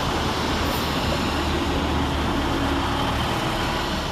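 Class 150 Sprinter diesel multiple units running through the station, a steady drone of underfloor diesel engines and wheel noise that begins to fade near the end.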